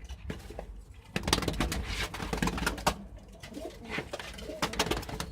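Domestic pigeons cooing, with a run of rustling and clattering from about a second in.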